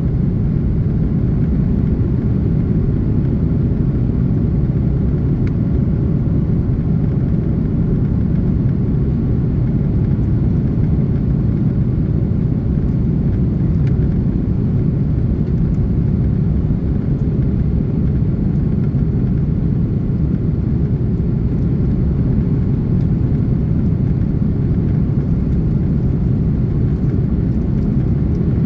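Steady, low engine and airflow noise inside the cabin of an Airbus A330-323 airliner, its Pratt & Whitney PW4000 turbofans running evenly.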